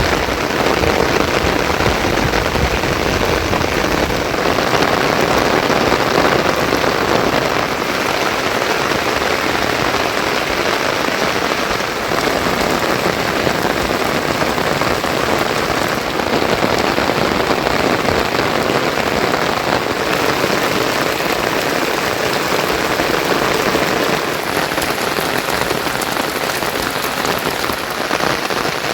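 Heavy monsoon rain falling steadily, a dense, even hiss of rain on surfaces.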